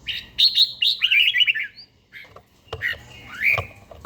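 Red-whiskered bulbul singing: a quick phrase of bright, warbling notes over the first two seconds, then a couple of shorter calls near the end.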